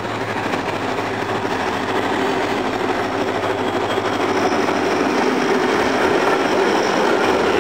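Diesel-electric locomotive hauling a container freight train past close by: its engine running and the wheels rumbling on the rails, growing steadily louder.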